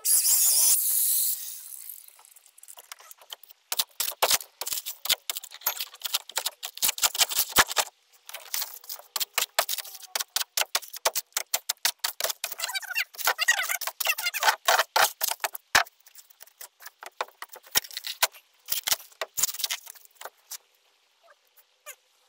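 A power tool whining and then stopping about a second and a half in. It is followed by a long run of irregular sharp cracks, clicks and scrapes as the rotten plywood floor of an old fiberglass boat is worked loose and broken out by hand.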